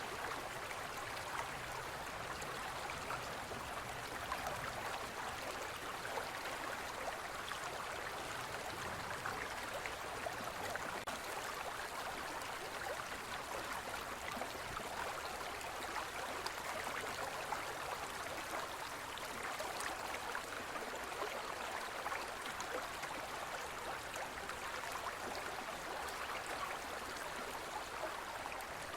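Gentle forest river flowing steadily over rocks: an even, continuous rush of water.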